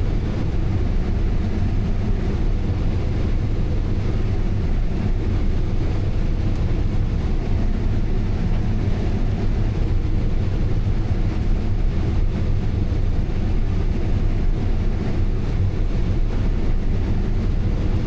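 Combine harvester running steadily while harvesting corn, heard as an even, unchanging low drone of engine and machinery.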